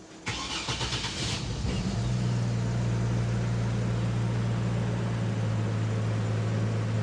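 Car engine cranked by its starter for about a second, catching and settling into a steady idle about two seconds in.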